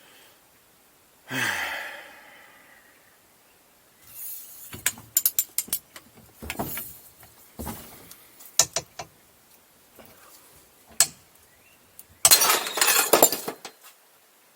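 A steel socket cracks under heavy wrenching force with a sudden loud bang and a short ringing tail, followed by a series of sharp metallic clinks and rattles of the broken socket and tools being handled, ending in a dense clatter.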